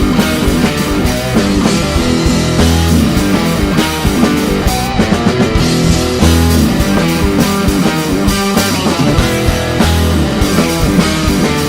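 Rock band playing an instrumental passage: guitars over bass and a drum kit, with no singing.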